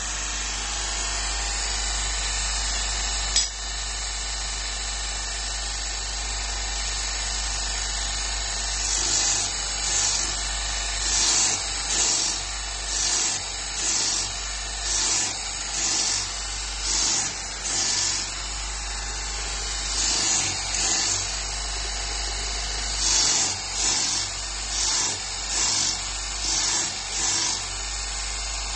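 Belt grinding machine running steadily with an electric motor hum, and a single sharp click a few seconds in. From about nine seconds in come repeated short grinding hisses, roughly one a second, as a blade is worked against the abrasive belt, pausing briefly midway.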